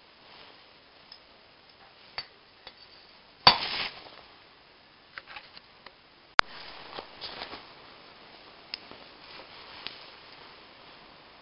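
Metal clinks and knocks of small engine parts and tools being handled at a workbench, with one louder clatter about three and a half seconds in and a sharp click a few seconds later.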